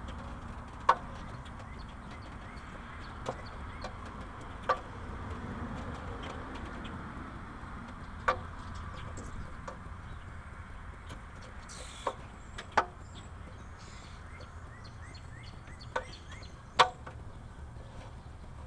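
1980 Ford F100's 302 V8 with a two-barrel carburettor running a steady low idle after being flooded on a warm start. Sharp clicks come through at irregular moments, about eight in all.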